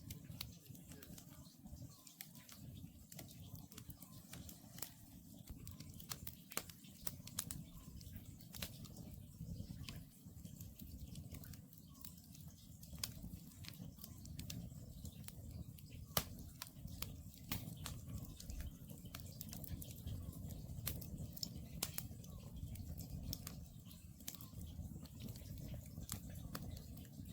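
Wood campfire crackling: irregular sharp pops and snaps over a low, steady rumble of the burning logs.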